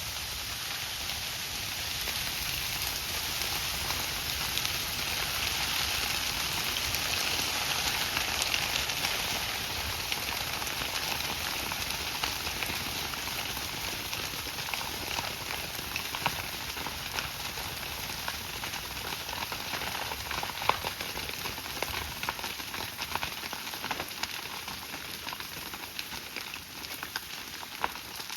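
Fire burning: a steady rushing hiss with crackles and sharp pops, the pops growing more frequent in the second half.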